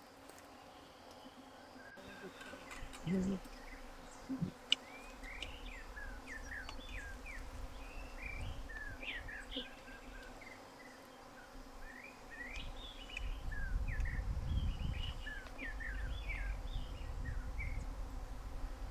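Outdoor ambience of many short, high chirps from small animals, over a low rumble that grows stronger about two-thirds of the way through. Two soft knocks come about three and four and a half seconds in.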